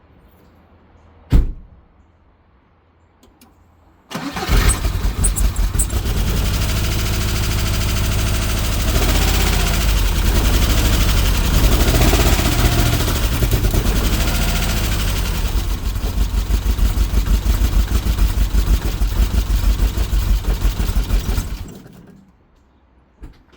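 A single sharp click, then the 1991 Subaru EJ22 2.2-litre flat-four cranks, catches and runs rough and uneven with its revs rising and falling, before it is shut off. It is misfiring because the timing belt is misaligned, most likely by one tooth.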